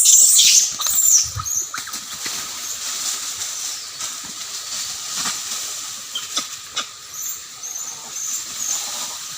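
Monkeys fighting: a loud, high screech in the first second or so, then short, high squeaks repeating every second or so, with scattered clicks.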